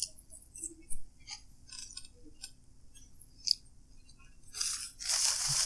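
Scattered light clicks and taps of takeout food and packaging being handled, then a loud steady rustle starts about five seconds in, like paper wrapping being crumpled.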